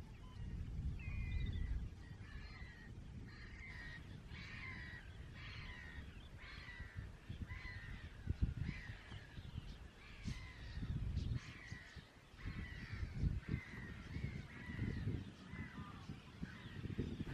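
Marsh birds calling over and over, short calls about once a second, noisy, with wind rumbling on the microphone underneath.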